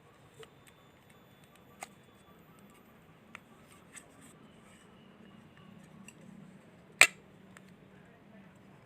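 Scattered light clicks and taps from hands-on toy-making work, with one sharp, much louder click about seven seconds in, over a faint low hum.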